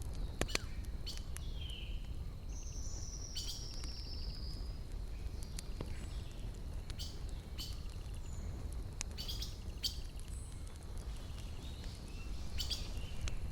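Wood campfire crackling: irregular sharp snaps and pops of burning logs over a low steady rumble. A bird gives a high, drawn-out, slightly falling call about two and a half seconds in.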